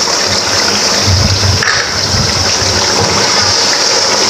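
Chicken pieces frying in hot oil in an aluminium karahi, a steady sizzle, while a wooden spatula stirs them, with a few dull bumps between one and two seconds in.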